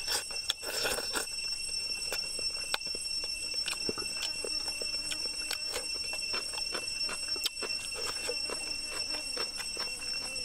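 Close-up eating sounds of a person chewing and lip-smacking on boiled chicken pulled apart by hand: many short, wet clicks at an uneven pace, over a steady high whine.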